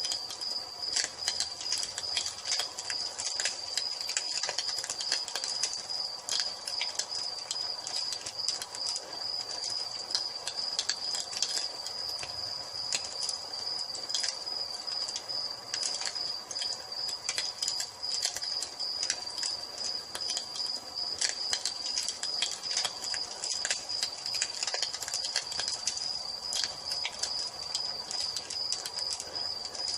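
Wood fire crackling with frequent irregular pops, over a steady high-pitched cricket trill.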